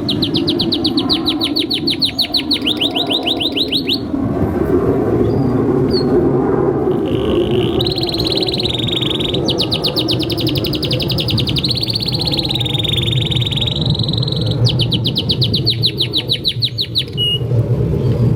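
Male domestic canary singing: fast trills of about eight notes a second alternating with held steady notes, in runs of a few seconds with short pauses between, over a steady low background hiss.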